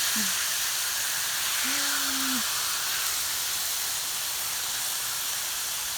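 Meat sizzling steadily as it cooks over the fire, a continuous hiss. A short hummed voice note comes about two seconds in.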